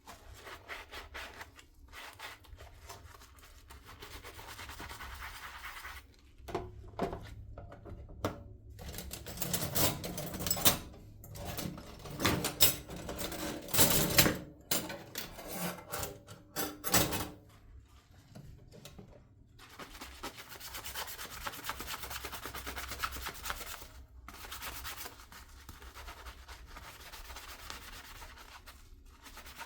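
Dishes being washed by hand in a sink: a sponge scrubbing with a steady rasp. From about six to eighteen seconds in, louder knocks and clatter of dishes being handled, then steady scrubbing again.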